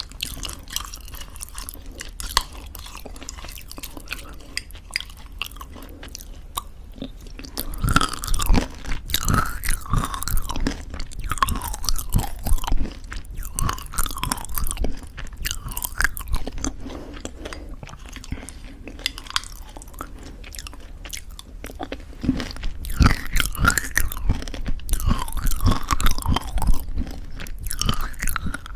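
Close-miked chewing of homemade granola in thick yogurt: crisp crunching mixed with wet mouth sounds. It is softer for the first several seconds, then comes in louder bouts of crunching around the middle and again near the end.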